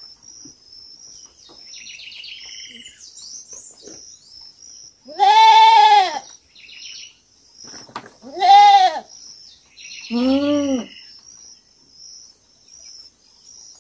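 A young goat bleating three times, each a loud call of about a second, over a steady, high, pulsing buzz and a few short bird chirps.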